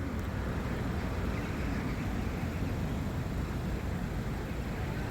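Steady road traffic noise from vehicles waiting and turning at a road crossing.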